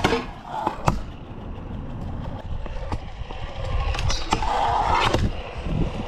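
Stunt scooter riding on a rail: wheels rolling, with a sharp clack at the start and another about a second in, as of the scooter striking the rail or landing.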